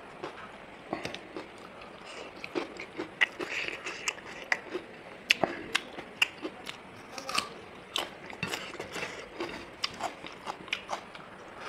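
Close-up mukbang eating sounds: a person biting and chewing chicken wings in curry, with many short, irregular clicks and crunches.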